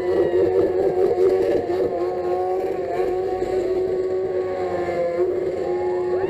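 Superbike motorcycle engine held at high revs while spinning the rear tyre in a donut, running steadily, with a sharp rise in revs near the end.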